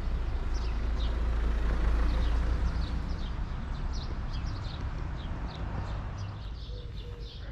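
Small birds chirping repeatedly over a low rumble that swells about two seconds in and then slowly fades.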